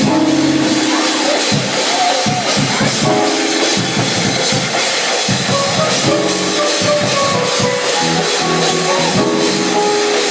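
Live church music: a drum kit keeping a beat under sustained chords that change every second or two.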